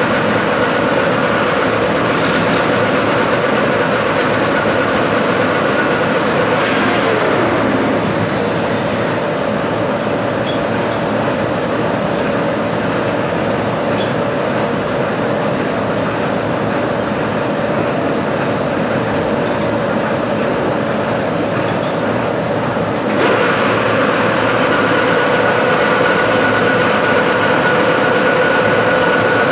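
A metalworking machine tool runs steadily with a constant hum and a higher whine. The sound drops abruptly about 8 seconds in and jumps back up about 23 seconds in.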